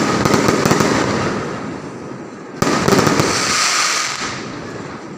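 Fireworks going off: a loud burst of dense crackling that fades over about two seconds, then a second sudden burst about two and a half seconds in that fades the same way.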